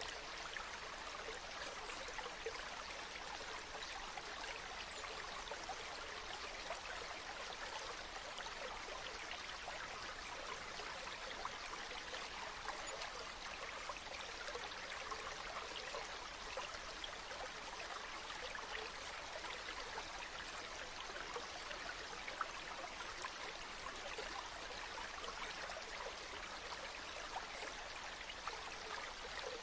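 Stream water running steadily with a continuous rushing and trickling.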